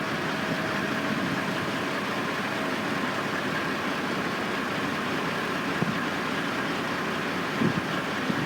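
Construction-site machinery engine running steadily: a continuous, even drone with no clear starts or stops.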